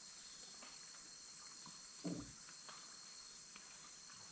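Steady high-pitched chorus of rainforest insects, with one short low pitched sound about two seconds in.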